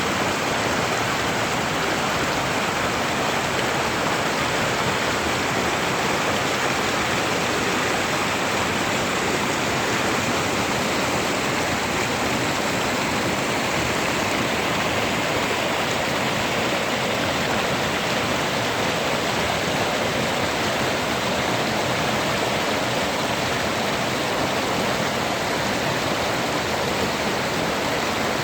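Waterfall in a mountain valley stream, the falling water rushing steadily with no let-up.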